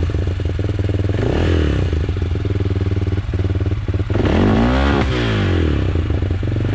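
Motorcycle engine running at a standstill, blipped up briefly about a second in and revved up and back down again about four to five seconds in.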